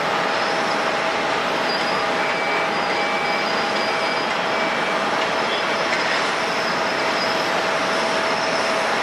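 Airliner jet engines running steadily: a constant rush of noise with a steady whine through it.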